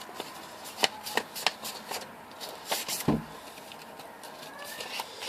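A sheet of paper being handled and creased into a fold, with a few sharp crackles and taps and a dull thump just after three seconds in.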